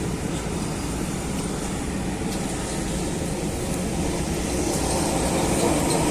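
A vehicle running with steady engine rumble and road noise, getting gradually louder toward the end.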